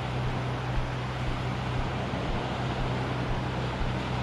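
Steady rushing of surf and wind on the microphone, with a steady low hum underneath.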